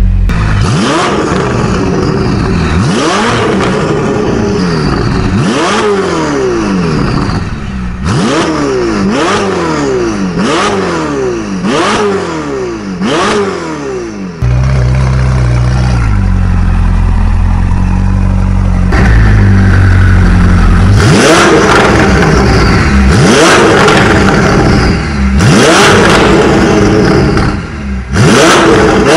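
Ferrari 488 GTB's 3.9-litre twin-turbo V8 through an iPE titanium exhaust, loud, revved in a quick series of sharp rises and drops. About halfway through it settles into a steady low drone for several seconds, then revs hard again.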